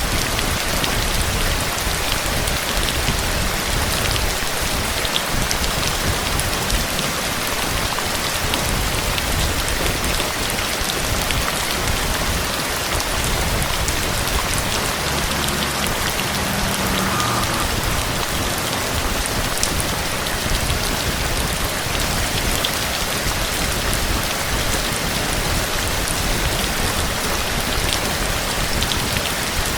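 Steady rain falling, an even hiss with scattered ticks of drops.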